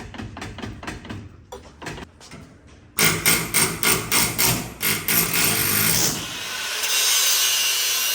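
Shop tool work, a fast even series of strikes or strokes. They grow suddenly louder about three seconds in and give way to a steady hissing noise near the end.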